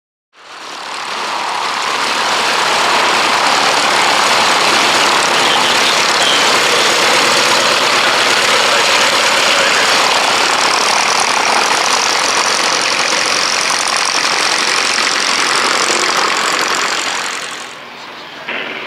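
Cessna 195A's radial engine and propeller running at steady power. The sound builds up over the first two seconds, holds, and drops away about a second before the end.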